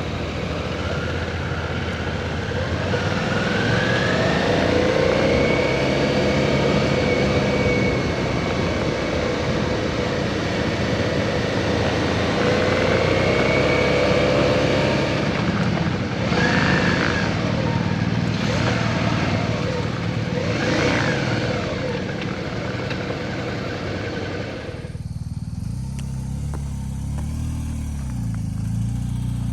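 Motorcycle engine running at road speed under heavy wind noise, its pitch rising and falling as it accelerates and eases off. About twenty-five seconds in, the wind noise cuts off suddenly, leaving a lower engine drone.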